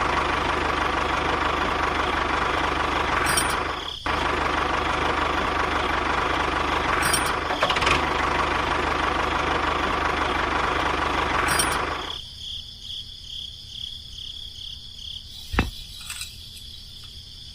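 Small motor of a miniature DIY tractor rig running steadily with a buzzing rattle. About twelve seconds in it drops to a much quieter low hum, with a single click near the end.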